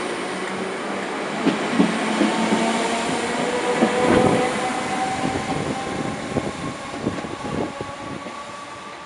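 Merseyrail electric multiple unit pulling out and accelerating away: a whine that slowly rises in pitch under rapid wheel clicks over the rail joints, loudest about four seconds in, then fading as the train leaves.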